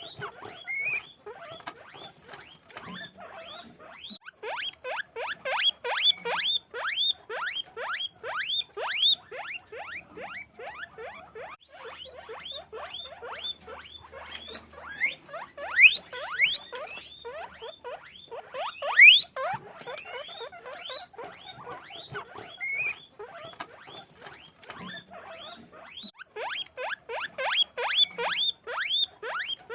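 Guinea pig squeaking: a fast, unbroken run of short squeals that rise in pitch, about three a second, louder in spells. A faint steady high whine runs underneath.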